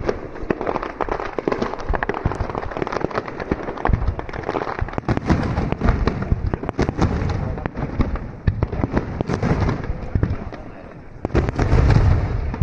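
Fireworks display going off in a rapid barrage: many sharp crackling shells with deep booming bursts, dipping briefly about ten seconds in before heavy booms resume near the end.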